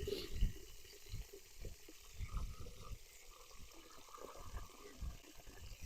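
Running water, a faint pouring and trickling, with irregular low thumps.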